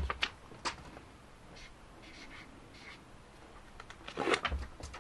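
Writing by hand. A few short clicks at the start, soft scratching strokes about two to three seconds in, then a louder scratch with a low knock a little after four seconds.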